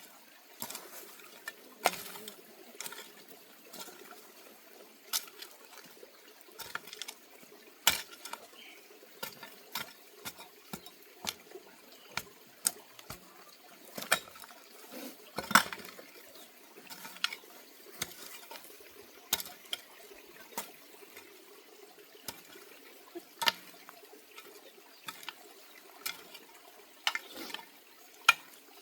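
Water splashing and running, with scattered sharp clinks and knocks at irregular intervals, as of something being washed by hand.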